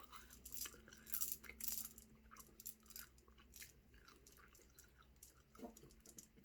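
Someone chewing Skittles close by, with a cluster of crisp crackles and clicks in the first half that then thins out.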